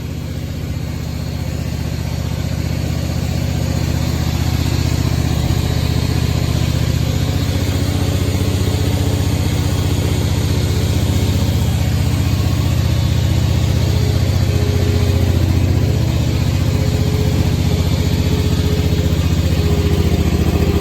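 Scag Tiger Cat II zero-turn mower engine running steadily after its cold start, growing louder over the first few seconds and then holding an even note.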